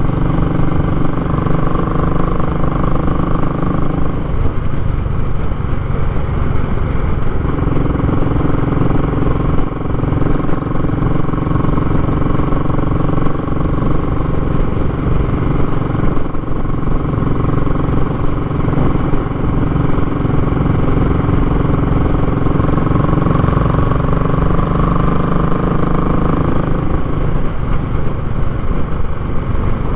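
Royal Enfield Classic 500's single-cylinder engine running through a short, raw muffler while riding along. The engine note shifts about four seconds in and again near the end.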